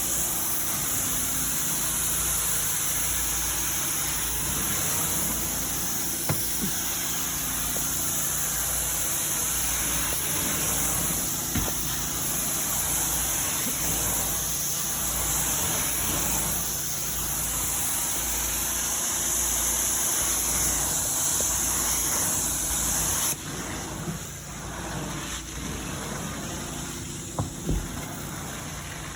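Carpet-cleaning vacuum machine running with a steady hiss of rushing air over a pulsing low hum. About 23 seconds in the hiss cuts off suddenly, leaving a quieter hum and a few short knocks.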